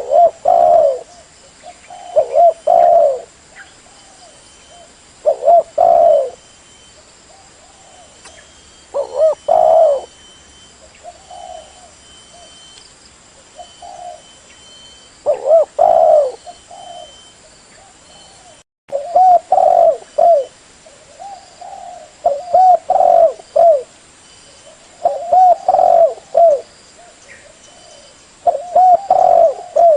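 Spotted dove (tekukur) cooing: short phrases of a few low coos, repeated every three to four seconds, with faint bird chirps behind.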